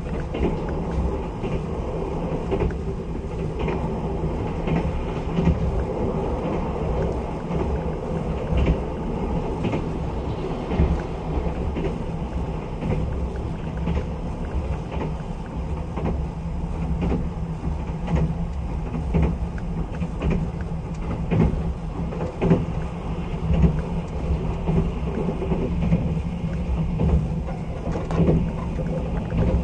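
Steady running noise of a moving locomotive-hauled sleeper train heard inside the coach: a low rumble of wheels on rails with irregular clicks and knocks from the track.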